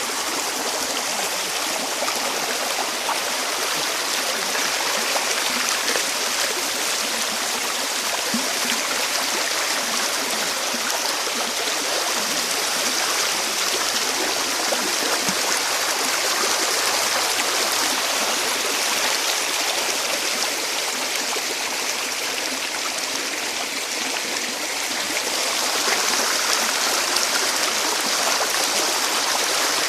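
A stream of water flowing over rocks, a steady rushing.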